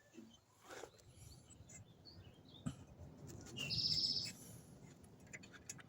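A bird gives one short, fast trill a little past halfway through. Faint scattered clicks and taps of handling are heard around it.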